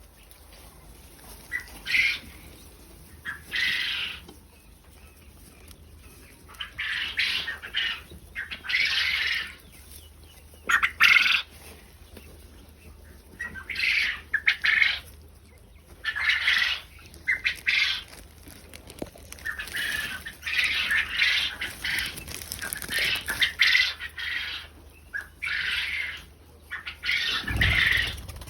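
Quail flapping their wings in about a dozen short, irregular bursts, with a low thump near the end.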